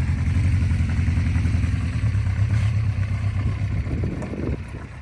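Honda CB350 Four's air-cooled inline four-cylinder engine idling steadily with an even low pulse, getting quieter near the end.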